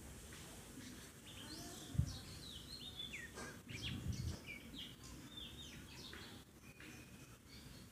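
Small birds chirping and twittering in the background, many short high calls overlapping one another. A single dull thump about two seconds in.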